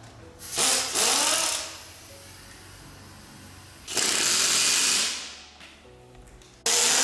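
Air-powered wrench run in three bursts of about a second each, loosening bolts on a dismantled engine, its pitch rising and falling as it spins up and slows.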